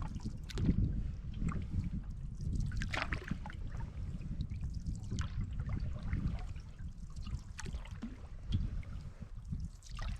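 Water splashing and trickling against a canoe on the lake, with a low rumble of wind buffeting the microphone.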